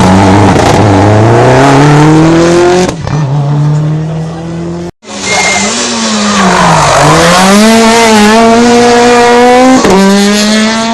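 Rally car engines at full throttle. The first accelerates hard with rising pitch and changes up a gear about three seconds in; after an abrupt cut about five seconds in, another slows, its pitch falling to a low point, then climbs again as it accelerates away and changes up near the end.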